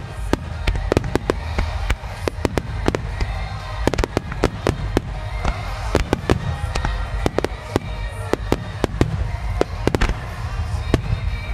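Star mine fireworks barrage: dozens of sharp aerial shell bursts in quick, irregular succession over a steady low rumble, with a song playing in the background.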